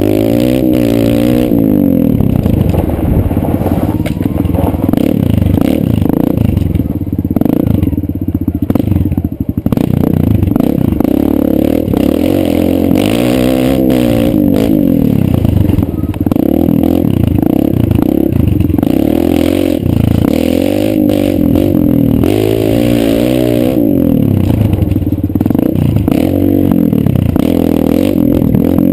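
Kawasaki KLX 140 dirt bike's single-cylinder four-stroke engine being ridden, revving up and easing off over and over, its pitch climbing and dropping again every few seconds.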